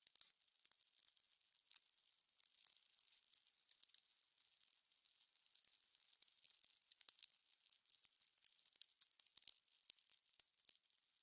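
Fire crackling: a steady run of irregular small snaps and pops over a soft hiss, thin and bright with no low rumble.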